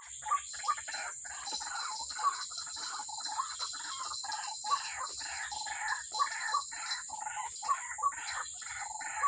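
White-breasted waterhen calling: a continuous series of repeated harsh notes, about two a second, over a steady high hiss.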